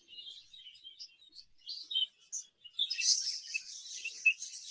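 Exhibition budgerigars chirping in the breeding room: scattered high chirps at first, growing into busy, overlapping chatter about three seconds in.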